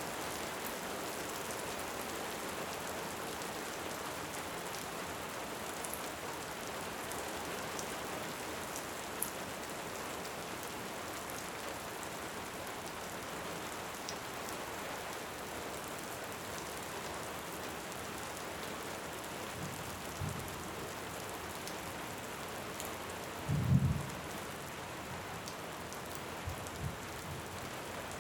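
Steady heavy rain with sparse small crackles of a wood fire. Near the end comes a brief low rumble of distant thunder, with a few fainter low thuds around it.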